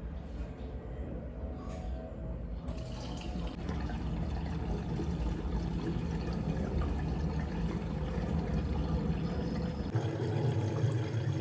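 Running water steadily filling a container, a continuous rushing and splashing of liquid.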